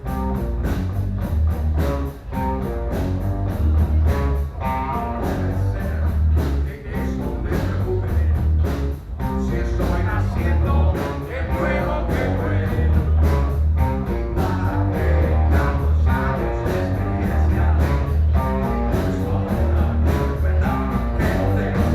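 Rock and roll music with guitar, bass and a steady drum beat.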